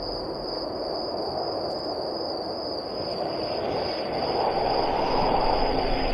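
Spooky sound-effect ambience: a steady high-pitched tone under a rushing noise that swells from about three seconds in.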